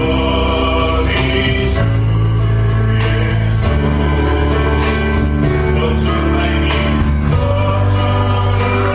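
Christian worship song sung by a group with accompaniment: sustained sung notes over steady bass and a regular beat.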